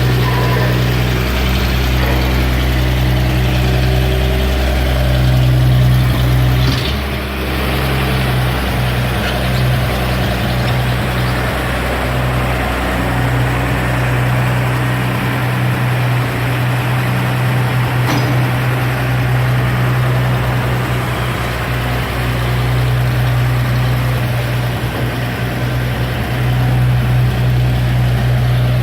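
1947 International KB-7 grain truck's engine running steadily at low speed, with a brief knock about seven seconds in.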